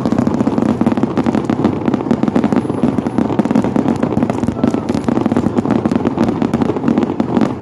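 New Year's fireworks and firecrackers going off in a dense, continuous barrage: many overlapping bangs and crackles with no gaps, loud throughout.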